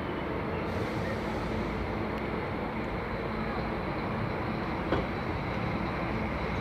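Scania coach's diesel engine running steadily, with a single brief knock about five seconds in.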